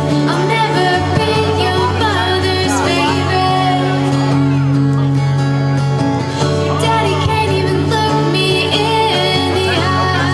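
A female singer's voice over backing music with long held chords.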